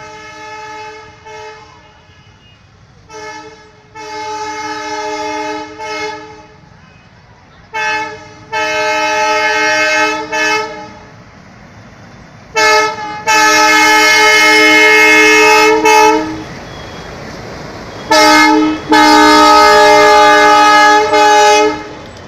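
Indian Railways locomotive horn on the Amaravathi Express sounding repeatedly as the train approaches: a short toot followed by a long blast, several times over, each pair louder than the last, the loudest near the end.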